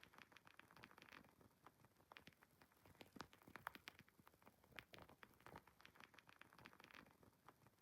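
Wood fire crackling faintly: irregular small pops and snaps over a soft hiss.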